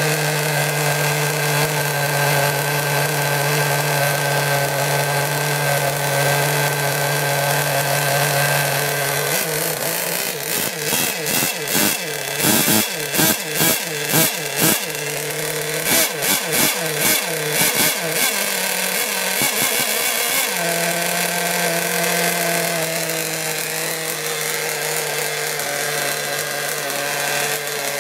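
Nitro engine of a modified RC BlackJack 26 boat running at a steady speed. About nine seconds in, the throttle is blipped repeatedly for about ten seconds, with quick revs up and down. After that the engine settles back to a steady run.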